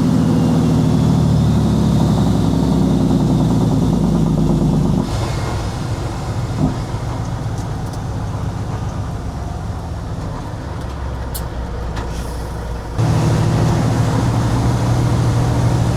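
Kenworth W900 semi truck's diesel engine running while driving, loud for the first few seconds, dropping back to a quieter run about five seconds in, then pulling hard again near the end.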